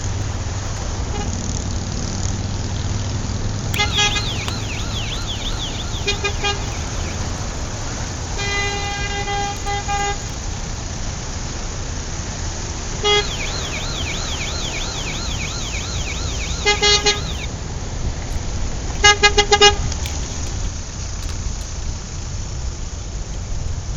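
Toy police car's electronic siren warbling rapidly in two bursts, about four seconds in and again from about thirteen seconds. Between them comes a held horn tone, and there are several short horn toots near the end, all over a steady background rumble.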